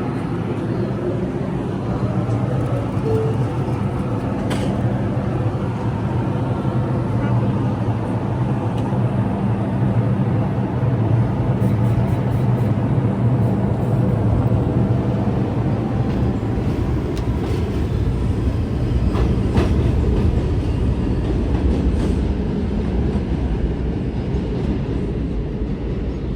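R142 subway train pulling out of the station and running on the rails: steady motor hum and wheel noise, with a few sharp clicks from the track. It grows slightly louder toward the middle and eases off near the end.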